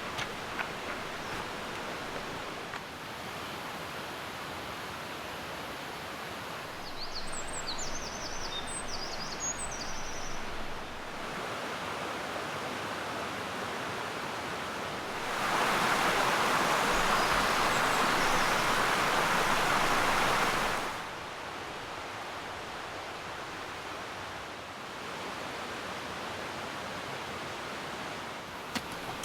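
Steady outdoor background hiss with a few brief high chirps about a third of the way in, and a louder stretch of rushing noise lasting about five seconds past the middle.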